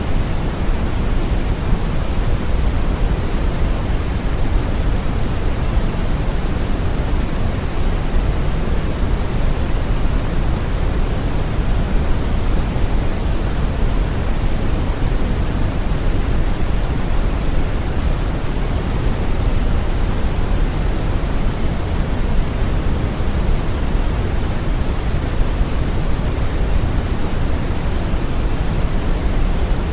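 Steady deep brown noise: an even rumbling hiss, heaviest in the bass and thinning toward the treble, unchanging throughout.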